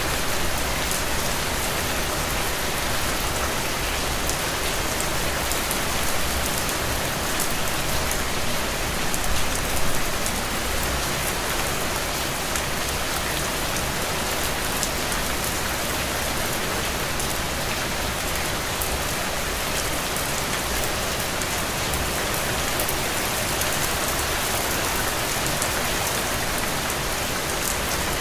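Heavy, steady rain falling on the ground and puddles, a dense even hiss with many individual drop ticks in it; it swells briefly about nine to ten seconds in.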